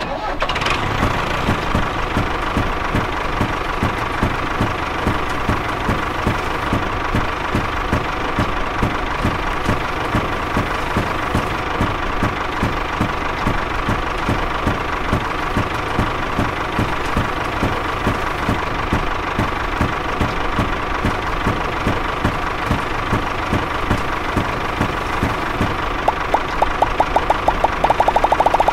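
Tractor engine running steadily with a regular knocking beat. A rapid run of clicks joins in near the end.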